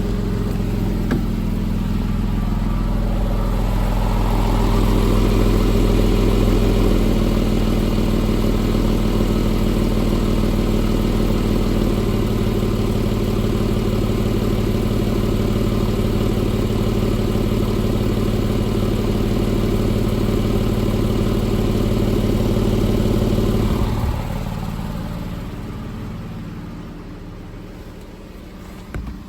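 A 2007 Porsche 911 S's 3.8-litre flat-six idling steadily on a cold start, the engine still completely cold after sitting three days. The sound drops off noticeably in level near the end.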